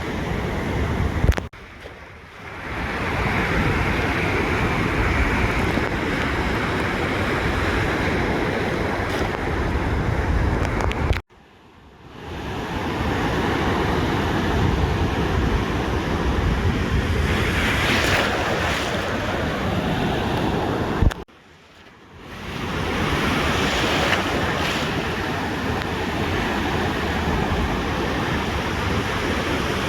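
Ocean surf washing onto a beach, a steady rushing with waves swelling now and then, and wind buffeting the microphone. Three times, about ten seconds apart, a click and the sound drops out for about a second before swelling back.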